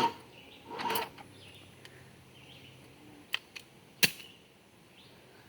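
A few sharp mechanical clicks: a quick pair just after three seconds and a louder one just after four, with no engine cranking. The truck is being tried on a jump from an 18-volt lithium tool battery that is not making a good connection.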